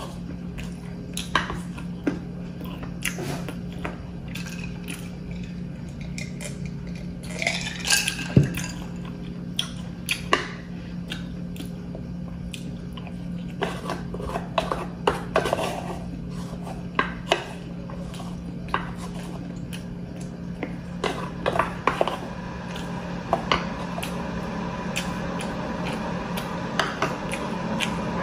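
Close-up mukbang eating: chewing and biting on squid, stir-fried squid and fried calamari rings (calamares) that she thinks are overcooked and tough, with scattered irregular clicks and crunches over a steady low hum.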